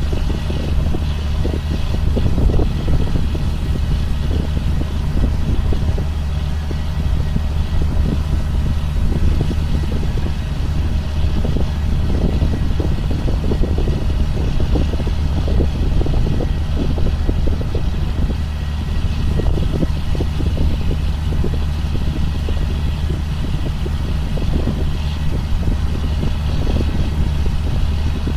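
2005 John Deere sprayer's engine running steadily under way, a constant low drone with an irregular rattle over it.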